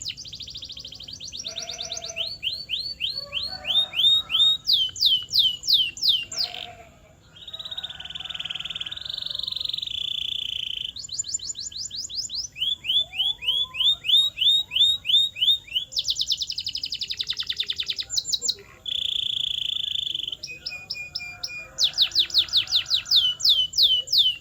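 Canary singing a long song of repeated-note phrases: fast trills, runs of quick downward-sweeping whistles and a few held notes, switching to a new phrase every second or two.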